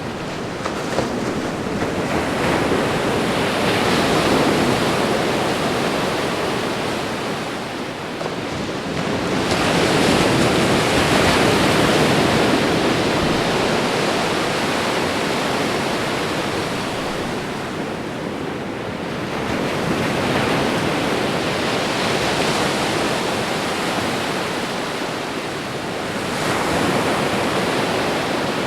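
Ocean surf: waves breaking and washing in, a continuous rushing noise that swells and eases four times, about every eight seconds.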